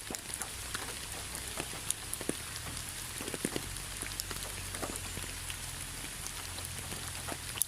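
Rain falling steadily, with many separate raindrops tapping distinctly on a surface over a constant hiss.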